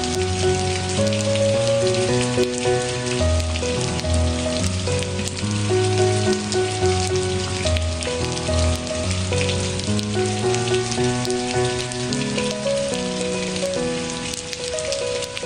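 Steady rain falling on a surface, with a patter of drops. Underneath runs slow, soft instrumental music of held notes that change every second or so.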